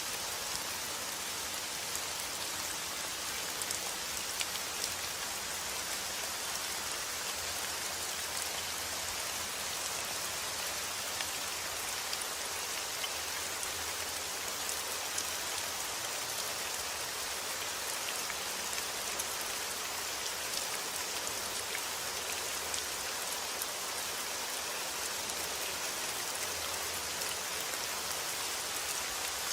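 Steady rain falling, an even hiss with scattered sharper drips and patters of drops on a surface.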